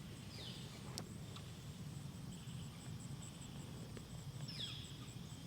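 Faint outdoor nature ambience: an insect keeps up a steady high pulsing trill. A bird gives two short whistled calls that fall in pitch, one near the start and one near the end, over a low background rumble.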